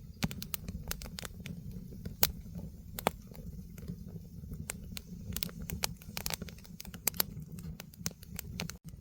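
Firewood burning in a fire pit, crackling with irregular sharp pops over a steady low rumble.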